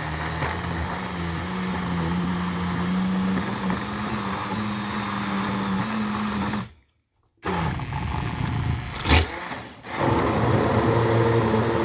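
Immersion (stick) blender running through a thick pulp of soaked paper, its motor whirring steadily. About seven seconds in it stops for under a second and starts again; a sharp knock follows about two seconds later, and it then runs on at a lower pitch.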